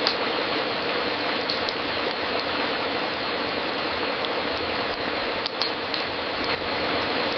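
Wood fire crackling in a fireplace: a steady hiss with scattered sharp pops.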